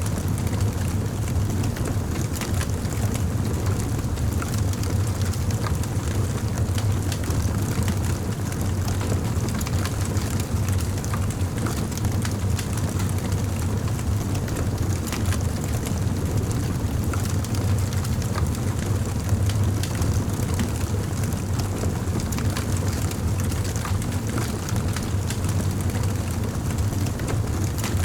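Campfire burning: a steady low rumble of the flames with many small irregular crackles and pops from the burning wood.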